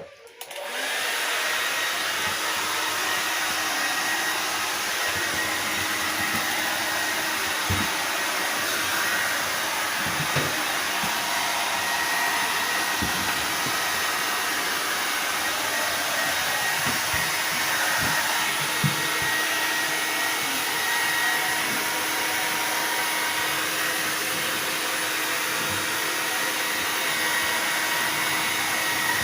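Hair dryer switched on at the start and running steadily on one setting, a blowing hiss with a faint motor whine, with a few soft low knocks in the middle.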